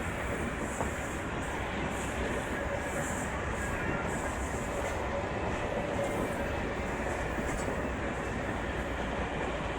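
Steady running noise of a moving passenger train heard from on board: wheels on the rails and the rush of the carriage going along at speed.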